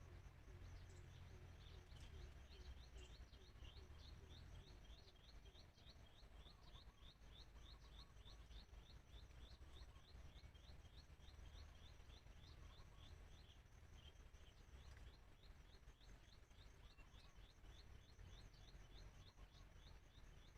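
Faint rapid series of short high bird chirps, about four a second, over a steady high insect trill and a low rumble.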